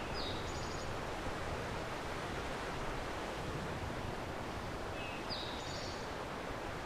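Steady wind noise through the woods, with a small songbird singing the same short, high phrase twice, about five seconds apart.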